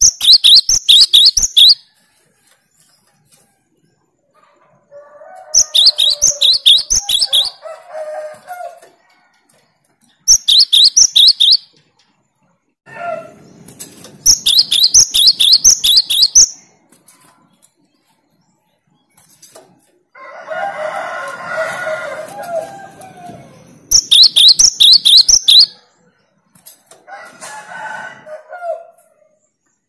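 Cinereous tit (gelatik batu) singing its 'tembakan' song: five loud bouts of fast, rapidly repeated high notes, each lasting one to two and a half seconds with pauses between, mixed with lower, rougher chattering phrases.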